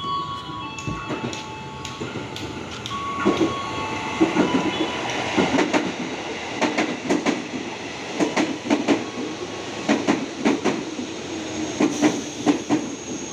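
KRL Commuter Line electric train running through the station, its wheels clacking over the rail joints in a steady rhythm from a few seconds in. The opening seconds carry the end of a short chime melody, and a high steady squeal sets in near the end.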